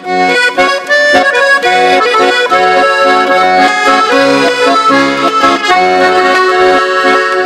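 Accordion playing the instrumental introduction to a song in sustained chords over a bass line, starting suddenly from silence right at the beginning.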